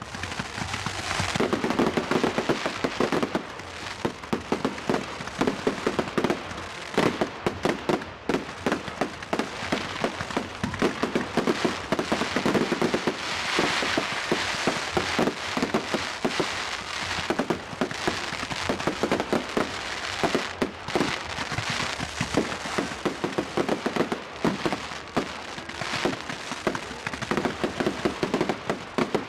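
Display fireworks going off in rapid succession: a dense, unbroken run of bangs and crackles.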